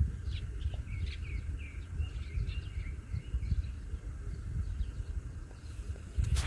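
Small birds chirping and calling repeatedly in short, high phrases over a steady low rumble of outdoor noise.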